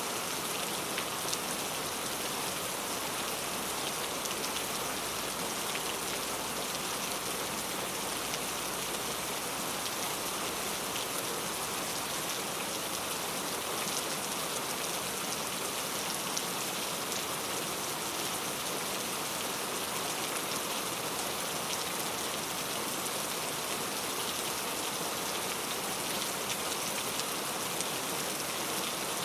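Steady heavy rain falling and pattering on surfaces, a dense even hiss with scattered drop ticks.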